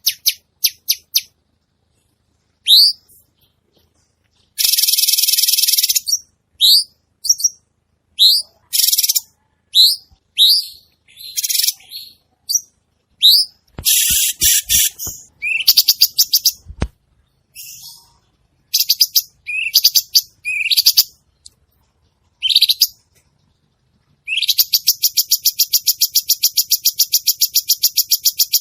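Cucak cungkok songbird singing busily: short upward-swept whistled notes mixed with fast buzzy rattles, ending in a long, rapid rattling trill over the last few seconds. A few soft low thuds come around the middle.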